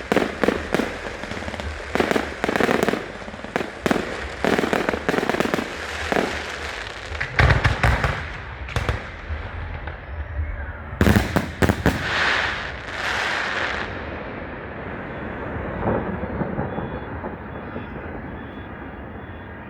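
Display fireworks going off in rapid volleys of sharp bangs and crackling, with a heavy boom about eight seconds in and another loud cluster a few seconds later. The bangs then die away after about fourteen seconds into a fading rumble.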